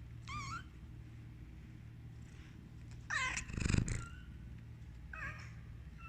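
Domestic cat meowing three times in short calls, the loudest about three seconds in, followed at once by a harsh noisy burst. A steady low hum runs underneath.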